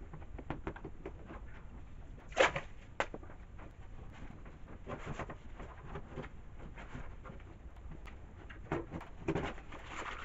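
Masking tape being pulled off the roll in short ripping strokes and pressed down, with light handling noise; the sharpest rip comes about two and a half seconds in and a few more near the end.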